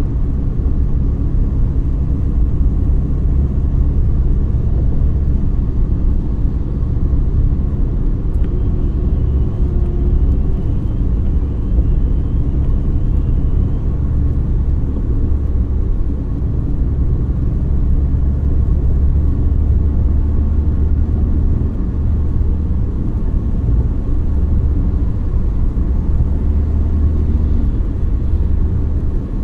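A car driving along: a steady low rumble of engine and road noise that holds even throughout.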